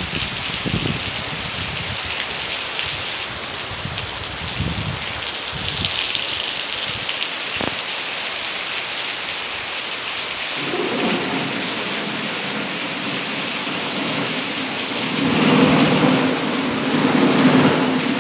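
Heavy rain pouring steadily onto a muddy yard, a constant hiss. There are low rumbles in the first few seconds. A low drone rises over the rain in the second half and is loudest a few seconds before the end.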